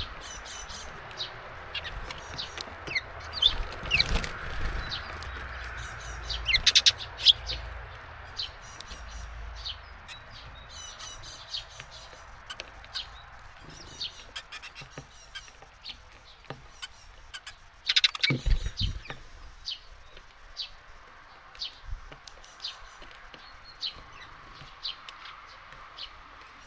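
Small songbirds at a garden feeder: many short chirps and calls, with the knocking and clicking of birds hopping and pecking on the feeder, over a steady hiss of rain. A louder clatter of knocks comes about 18 seconds in.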